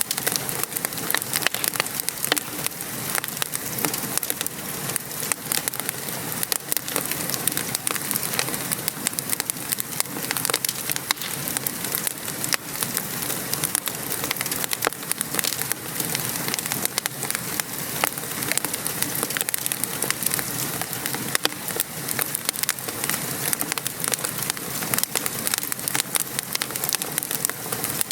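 Steady rain pattering outside, mixed with a wood fire crackling, with many small pops and snaps scattered throughout.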